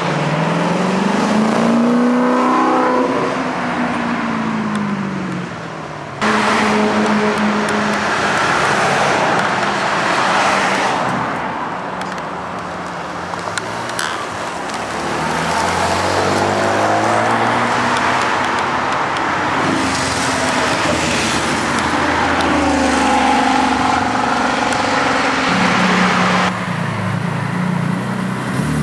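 Sports car engines revving and accelerating hard, several cars in turn, through loud exhausts. The engine pitch climbs and falls repeatedly, and the sound changes abruptly about six seconds in and again near the end.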